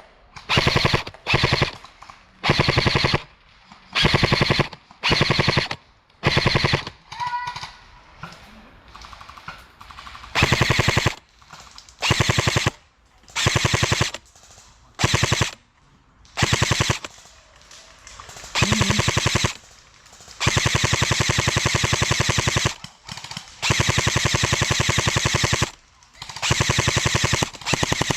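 Electric airsoft rifle, a Specna Arms SA-H08 AEG, firing full-auto in repeated bursts. Each burst is a rapid, even rattle of the gearbox cycling. Most bursts last about a second, and two longer ones of about two seconds come late on.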